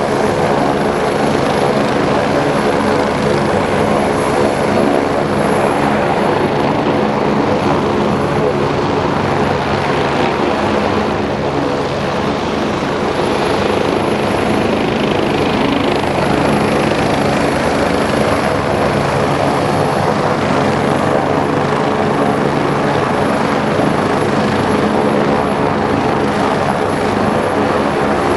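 Medical helicopter running steadily, a continuous loud drone of rotor and turbine.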